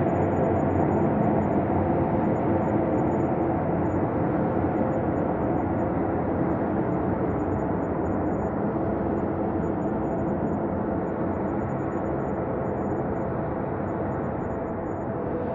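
Ambient space drone: a steady, low rumbling drone with faint held tones, slowly growing a little softer and duller.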